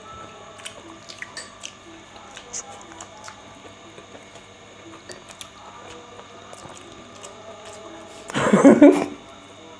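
Quiet chewing of momos, with small wet squishes and clicks, under faint background music. A short, loud burst of a person's voice comes near the end.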